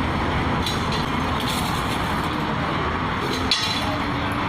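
Steady roadside traffic noise, with a few light clinks about a second and a half apart and another near the end.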